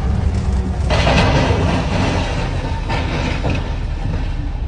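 Vehicle engine running steadily, with a loud hiss that sets in about a second in and lasts about two seconds.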